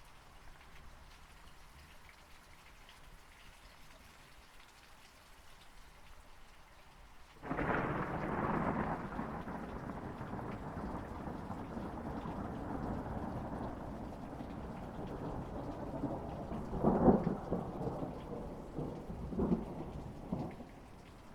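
Steady rain falling. About seven seconds in, thunder breaks in suddenly and rolls on at length, with two sharper cracks near the end before it eases.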